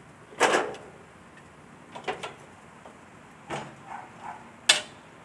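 A few separate sharp knocks and clatters, like objects being handled or set down. The loudest comes about half a second in and another near the end, with a short cluster around two seconds in.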